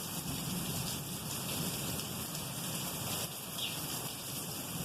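Steady rain falling, with the low, continuous rumble of rolling thunder underneath.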